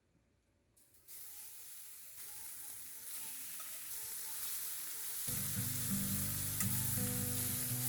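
Food sizzling as it fries in a pan, a fizzing hiss that fades in and grows louder. Background music comes in about five seconds in.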